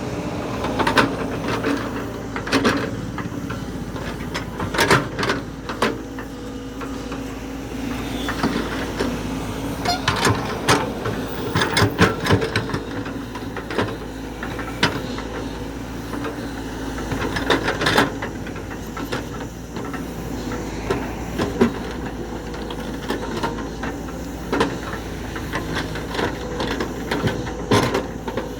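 JCB backhoe loader's diesel engine running steadily, with frequent sharp clanks and knocks scattered through it from the machine at work.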